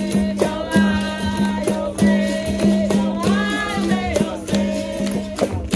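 Capoeira roda music: voices singing over a berimbau's repeated low tone, with the shaken rattle of a caxixi and the taps of a pandeiro keeping a steady rhythm.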